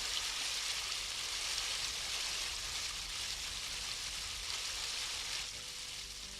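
Steady rushing of river water, the constant hiss of flow over a weir. Music fades in faintly near the end.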